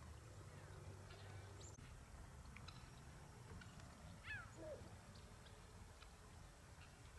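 Faint bird calls: scattered short chirps and one louder call falling in pitch about four seconds in, over a low steady rumble.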